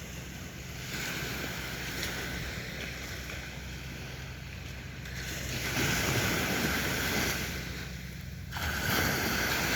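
Sea waves breaking and washing on a beach, with a steady low rumble; a wave surges louder about halfway through and another comes in sharply near the end.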